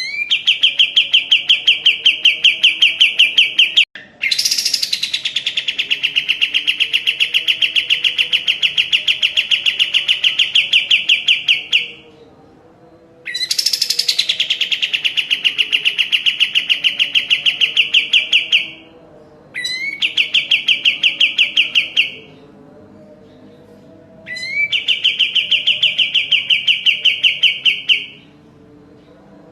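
Kapas tembak singing a series of long, very rapid buzzy trills, five phrases of two to eight seconds each with short pauses between. Two of them open with a high note that slides down into the trill.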